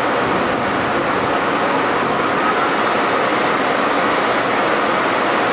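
Taiwan Railways train running past: a steady, loud rush of wheel-and-rail noise with a faint steady whine on top.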